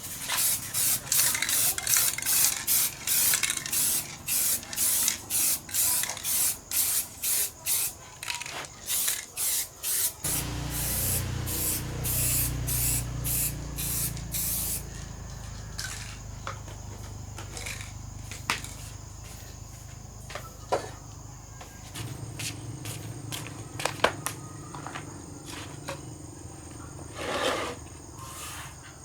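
Spray gun or spray can hissing in rapid short bursts, about two to three a second, then spraying continuously for about five seconds with a low rumble underneath. A few faint clicks follow.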